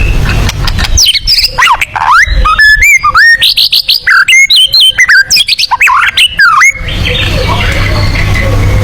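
White-rumped shama (murai batu) singing a fast run of loud whistled notes that sweep sharply up and down, the rapid 'tembakan' burst song. The song breaks off about seven seconds in, giving way to a rougher, harsher stretch over a low hum.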